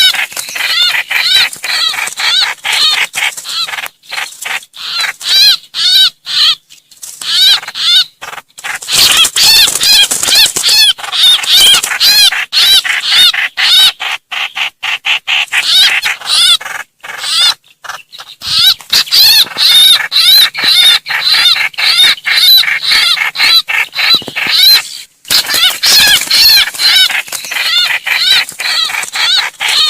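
Trao trảo bird giving rapid, harsh, repeated distress calls, several notes a second, with a few short pauses. This is a lure recording of the bird crying for help and calling its flock.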